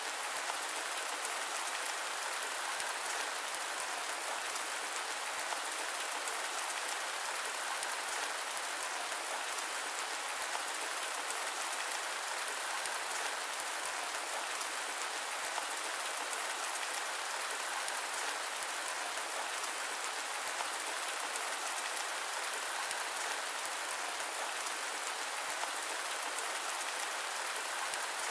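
Steady rain, an even hiss that carries no deep rumble and never changes in level.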